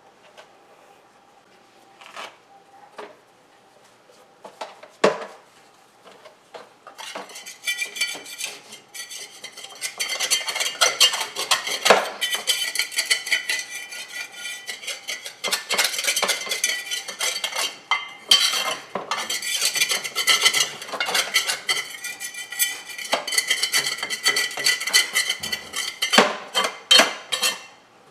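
Scraping and clinking of cleaning work under a refrigerator. A few separate knocks come first, then from about seven seconds in a dense, rapid run of scraping and clattering, broken briefly near the middle.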